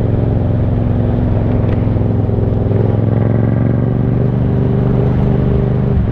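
Yamaha MT-07's parallel-twin engine running steadily under light throttle in fourth gear as the bike gains a little speed while cruising.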